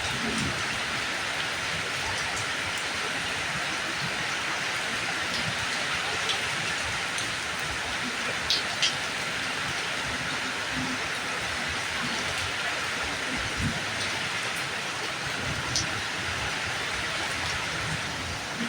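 Steady rain falling, with a few sharper drops tapping at scattered moments.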